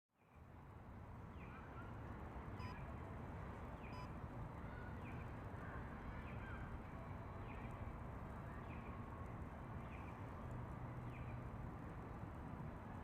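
Footsteps crunching and squeaking in cold snow at a steady walking pace, about one step every second, over a faint low hum of distant traffic.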